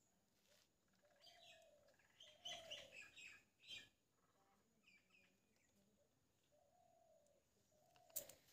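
Faint bird calls: quick high chirps mixed with a few short, lower, slightly falling calls, busiest about two to four seconds in. A single sharp click comes near the end.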